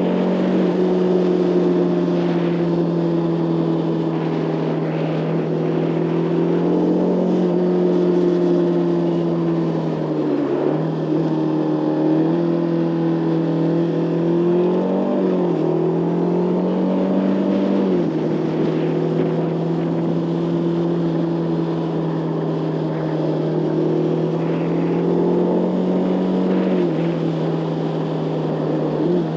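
Motorcycle engine running under way, its pitch holding steady and then dipping and climbing again several times as the throttle changes.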